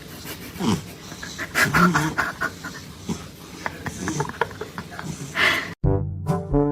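An animal panting and snuffling, with scattered clicks and a few short vocal sounds. Near the end it cuts off abruptly and brass music starts.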